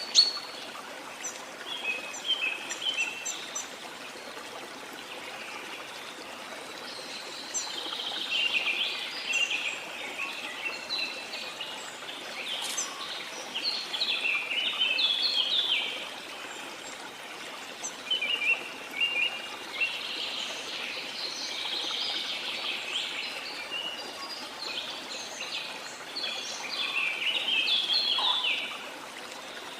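Waterfall water rushing steadily, with rainforest birds calling over it in repeated bouts of quick chirps and short warbled phrases. A sharp click sounds at the very start.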